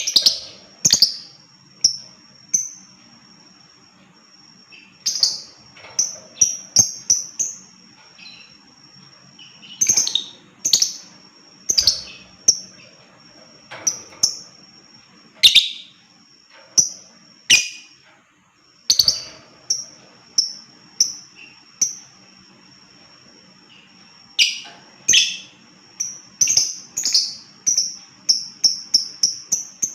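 Lovebird calling: a series of sharp, high-pitched chirps, some single and some in quick clusters, that speed up into a rapid, even run near the end.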